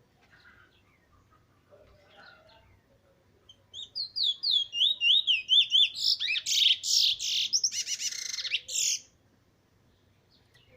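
Male Trinidad bullfinch singing: about a third of the way in it starts a fast series of clear, down-slurred whistled notes, which run into a denser, buzzier warble before stopping suddenly.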